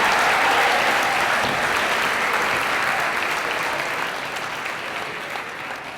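Audience applause from a large crowd, steady at first and gradually dying away toward the end.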